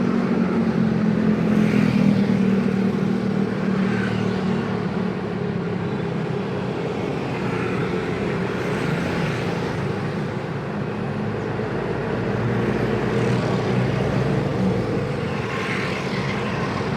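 Busy city road traffic: many vehicle engines running together in a steady drone that swells a little at times.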